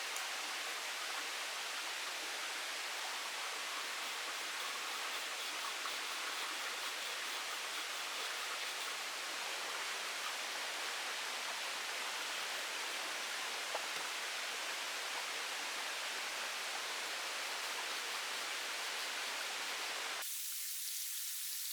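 Steady rushing noise of water, with a few faint ticks. Near the end it changes abruptly to a thinner, higher hiss.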